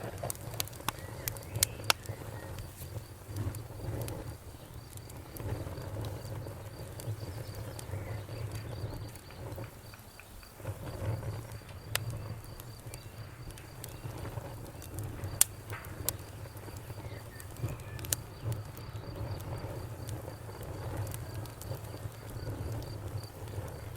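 Wood fire crackling: a steady low rumble of burning with sharp pops and snaps at irregular intervals, the loudest snap about fifteen seconds in.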